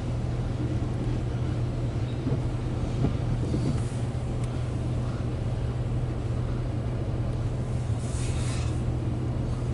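Loaded coal train's hopper cars rolling past a grade crossing, a steady low rumble heard muffled from inside a stopped car.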